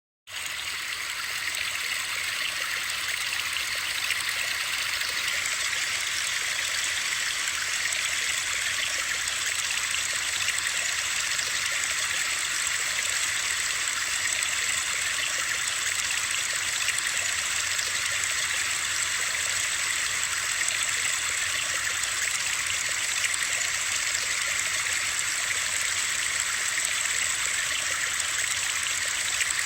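Steady, unbroken rushing-water noise, a bright even hiss with little low rumble, used as white noise for sleep.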